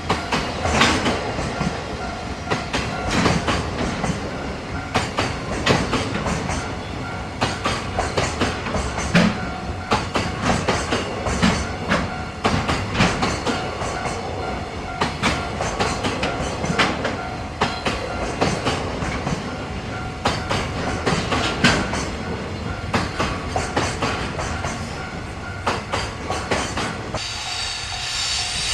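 Freight train wagons rolling past, their wheels clicking and knocking over rail joints. Near the end a high-pitched wheel squeal sets in.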